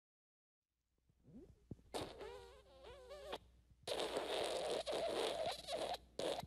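Fart sound effects: after about a second of silence, a short squeaky fart whose pitch wavers up and down, then a long, noisy, raspy fart.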